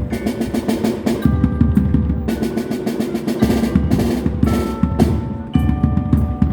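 Percussion music: drums played in rapid strokes, with ringing pitched tones over them that change about once a second.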